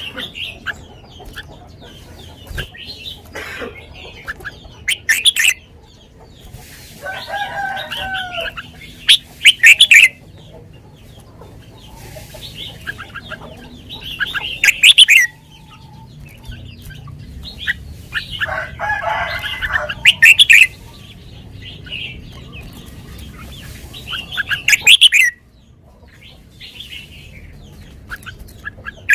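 Red-whiskered bulbul singing short, loud, whistled song phrases about every five seconds, with other bird calls in between.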